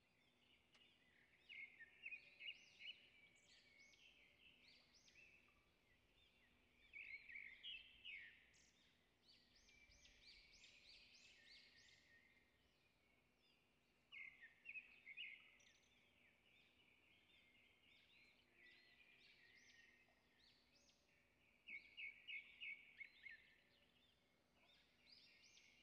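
Faint birdsong: four short phrases of quick, high chirping notes, each a second or two long and spaced about six or seven seconds apart, over a faint steady hum.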